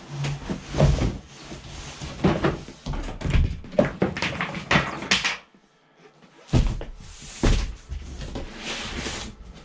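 Cardboard shipping box being pulled apart and its top lifted off: a run of cardboard scrapes, rustles and dull knocks, a short lull about five seconds in, then more knocking and rustling.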